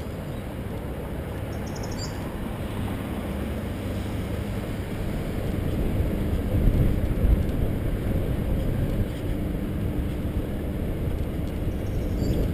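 Wind buffeting a bicycle-mounted camera's microphone, with steady rumble from the bike rolling along the trail.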